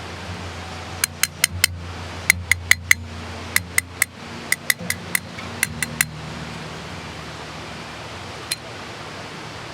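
Sharp metallic clinks with a short ring, in quick runs of three or four over about five seconds and one more near the end, like a metal utensil tapping cookware. A steady low hum runs underneath.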